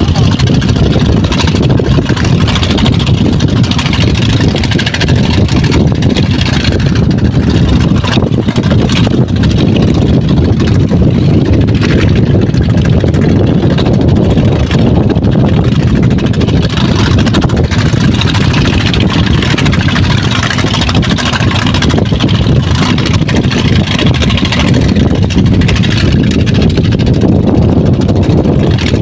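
Engine of a sand-suction dredging pump running steadily, a loud continuous low rumble that does not change.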